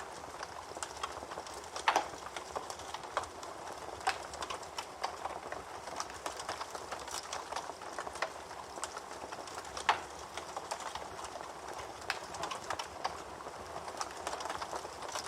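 Campfire crackling, a steady hiss dotted with irregular small snaps and a few louder pops, the sharpest about two seconds in and again near ten seconds.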